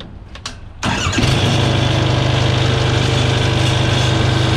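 An engine is cranked by its starter, spinning over fast, catches about a second in and settles into a steady, evenly pulsing run. The no-start fault had been traced to the negative battery cable, and the starter now turns the engine over faster than usual.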